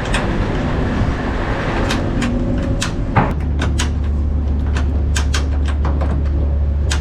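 Ratchet strap being tightened on a lorry load: a run of sharp, uneven ratchet clicks. A steady low hum comes in about three seconds in.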